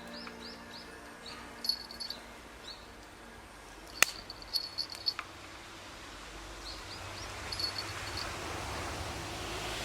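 Small birds calling with short, high chirps, and a single sharp crack about four seconds in. A soft hiss builds toward the end.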